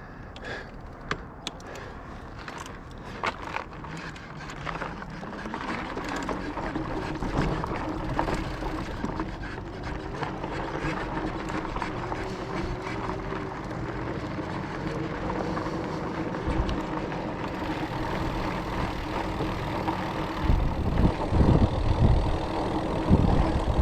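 Electric bike motor whining steadily under load on an uphill climb, over tyre noise and clicks of stones on a rocky dirt road. Low rumbling bursts come in near the end.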